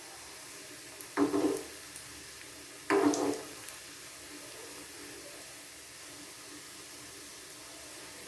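Bread rolls deep-frying in hot oil in a small pan, a steady sizzle. Two short, louder bursts stand out, about a second in and again about three seconds in.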